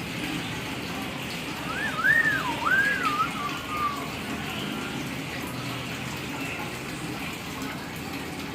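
Hill myna whistling a short run of rising and falling notes about two seconds in, lasting about two seconds, over a steady hiss.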